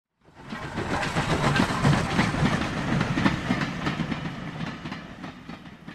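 A train passing with a dense clatter of wheels over the rails. It swells up quickly in the first second and fades away over the last few seconds.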